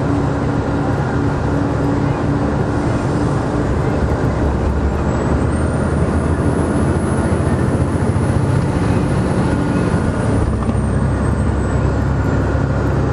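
Steady engine and road noise of a moving road vehicle heard from inside, a continuous low rumble with a faint high whine that rises about five seconds in and fades near the end.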